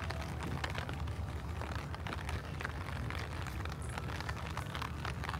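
Rain falling, a dense patter of scattered drops, over a steady low rumble.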